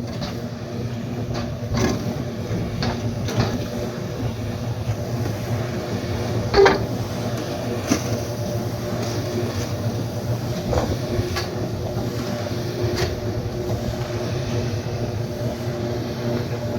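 A motor running steadily with a low, even hum, with scattered clinks and knocks of work over it; the loudest knock comes about two-thirds of a second before the seven-second mark.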